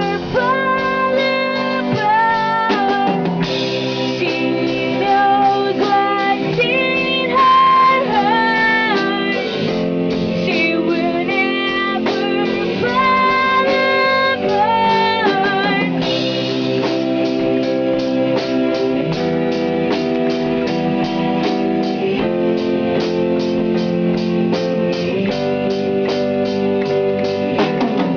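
A band's song with guitars and a drum kit: a melodic lead line carries the first half, then from about halfway a steady strummed rhythm takes over.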